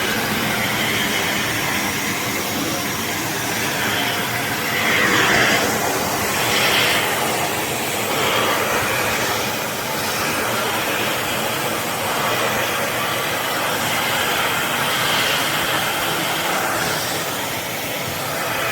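Philips Series 3000 bagged vacuum cleaner (900 W) running with a steady rushing whoosh, which swells in pitch and loudness a few times, as when the nozzle's airflow changes. It stops abruptly at the end.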